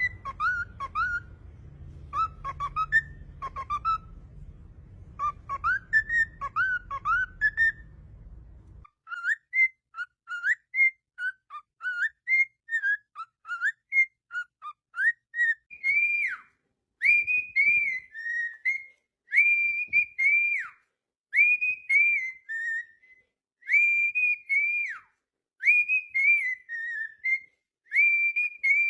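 Cockatiel whistling its song: a string of short whistled notes sliding up and down, which from about halfway settles into a repeated phrase of held high whistles, each dropping away at its end.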